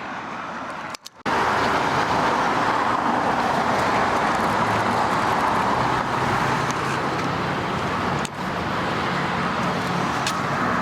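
Steady road and tyre noise of a car driving at speed, heard from inside the cabin, with a low engine hum beneath. It cuts out briefly about a second in, then resumes louder.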